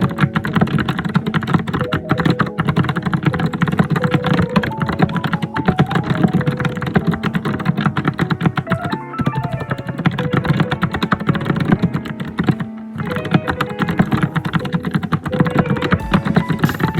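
Fast, continuous typing on a computer keyboard, a dense stream of key clacks with brief pauses about nine and thirteen seconds in.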